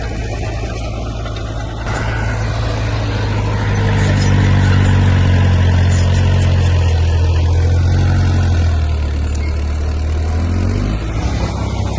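Heavy diesel engine of earthmoving machinery running under load, a low steady drone that grows louder about four seconds in, holds, then eases off near the end.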